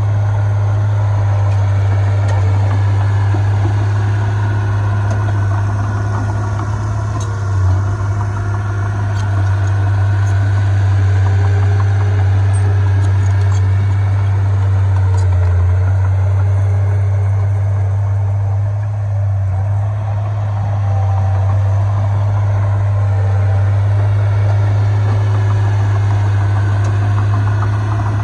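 Heavy diesel engine of earthmoving machinery running steadily with a deep, constant drone.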